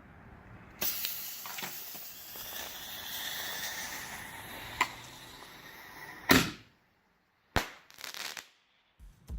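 A 1-inch artillery shell's fuse hissing and crackling for about five seconds, then a loud bang as it fires from its launcher, and a second, shorter bang about a second later.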